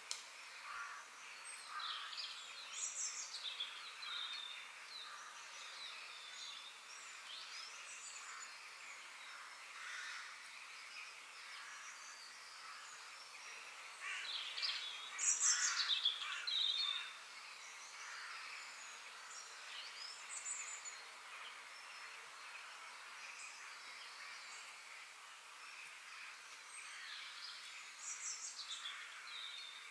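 Forest birds singing: scattered short, high phrases of several birds over a steady background hiss, with the loudest burst of song about halfway through.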